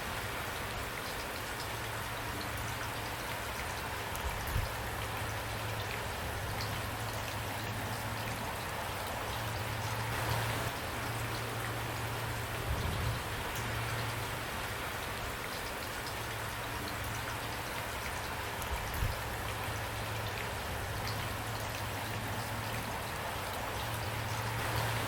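Steady rainfall, with individual drops pattering and ticking on a surface through a constant hiss. A few slightly louder swells of drops come and go, and there is a low hum underneath.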